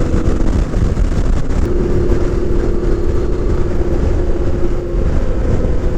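Yamaha Ténéré 700's parallel-twin engine running at a steady cruise with wind noise on the microphone, the engine note rising a little about a second and a half in.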